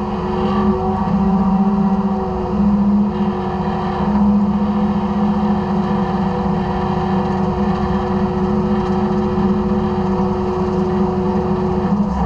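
Side-loader garbage truck's engine and hydraulics running with a steady drone and a steady whine; the whine stops near the end.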